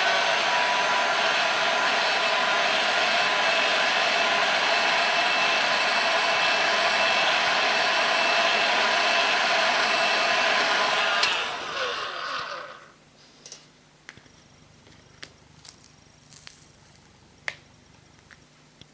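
Heat gun running steadily on its lowest setting, its fan and element hissing with a faint whine. About eleven seconds in it clicks off and the fan winds down over a second or so, leaving only a few faint clicks.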